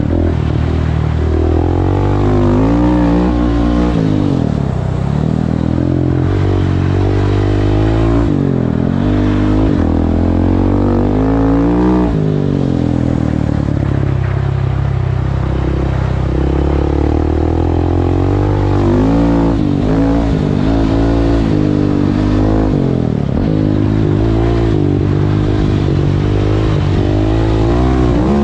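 Husqvarna 701 single-cylinder supermoto engine with an Akrapovic exhaust, ridden hard on ice: it revs up and drops back again and again as the rider accelerates and eases off.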